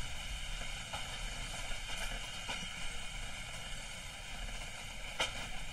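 Railway passenger coach running along the line, heard at an open window: steady wind rush and the rumble of wheels on the rails, with a sharp click about five seconds in.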